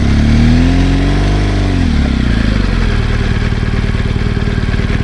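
BMW R1200GS Adventure's boxer-twin engine pulling under way, its pitch rising over the first second and a half and then dropping as the throttle eases, then running steadily, with a steady hiss over it.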